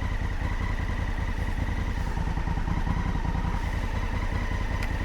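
Large adventure motorcycle engine running steadily at low revs, a low pulsing rumble with a faint steady whine, and a light click near the end.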